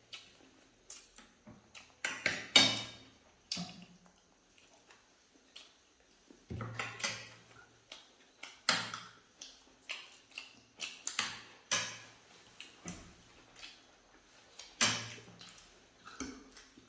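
Eating sounds from momos and soup: irregular short clicks and clinks of a spoon against plates and bowls, mixed with mouth noises of eating.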